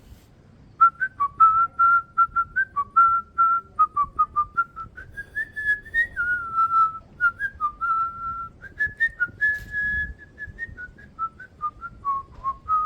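A person whistling a lively tune of many short notes, starting about a second in.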